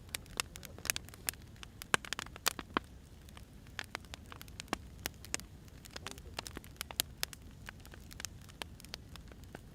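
Wood fire crackling: irregular sharp pops and snaps of burning firewood, some close together and some spaced apart, over a steady low rumble.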